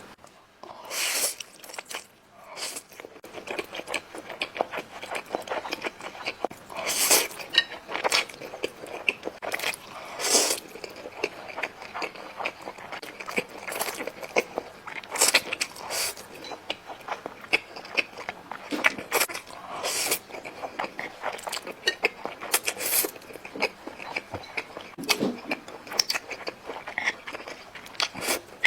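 Close-miked eating sounds: biting and chewing chicken, a steady run of short, sharp mouth clicks and smacks, with louder bites every second or two.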